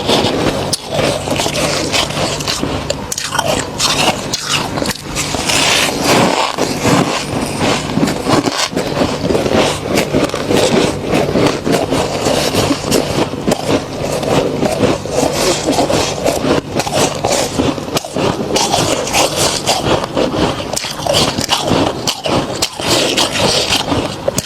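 Thick freezer frost being scraped and crunched, a dense continuous crackling, with a steady low hum underneath.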